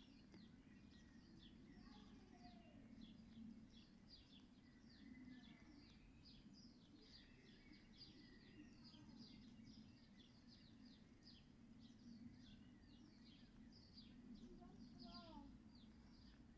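Faint, rapid high-pitched peeping of small birds, several short falling notes a second without a break, with a few lower sliding notes about two seconds in and near the end, over a low steady hum.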